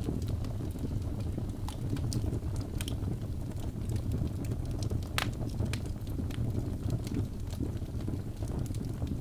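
Wood fire burning in a fireplace: a steady low roar of flames with scattered sharp crackles and pops from the logs, the loudest pop about five seconds in.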